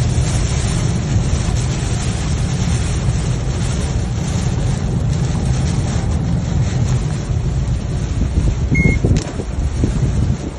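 Wind and road noise on a moving vehicle: a steady, loud rush heaviest in the low end, with no clear engine note. A brief high beep sounds about nine seconds in.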